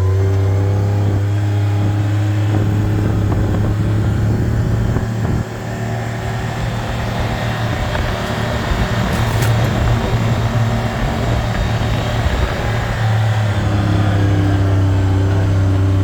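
Vehicle engine running steadily, heard from on board while driving on a dirt road. About five seconds in the level drops briefly and a noisier stretch follows, and the steady hum returns about three seconds before the end.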